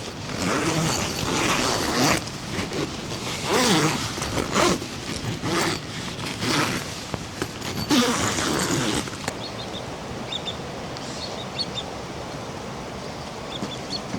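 Close rustling and handling noises, irregular and loud, for about the first nine seconds, then they stop. A steady rush of water is left, with a few faint high bird chirps.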